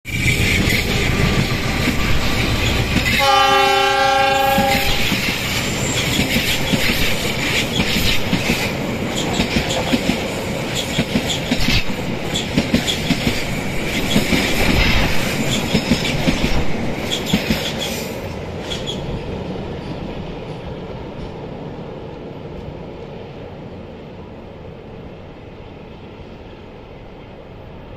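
Diesel-hauled passenger train passing close by and running out across a steel truss bridge. Its horn sounds once, for about a second and a half, about three seconds in. Then the wheels clack steadily over the rails, and the sound fades from about 18 seconds on as the train moves away over the bridge.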